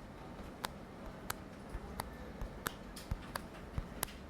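LeEco Le 2 smartphone display clicking under repeated finger presses, with six sharp clicks evenly spaced about two-thirds of a second apart. This is the creaking of the screen flexing in its middle, which the host puts down to weak support behind the display.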